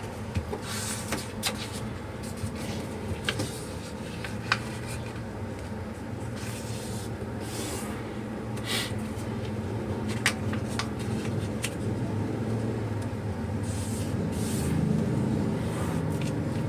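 A sheet of paper being handled and folded by hand into a paper airplane: short rustles and sharp crease clicks scattered throughout. Under it runs a steady low rumble that grows a little louder near the end.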